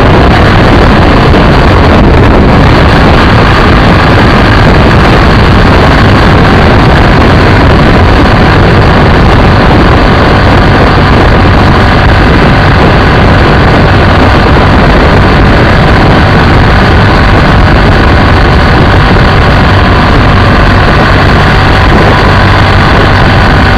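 BMW F800ST's parallel-twin engine running steadily at riding speed, loud and unbroken, mixed with wind rush on the microphone.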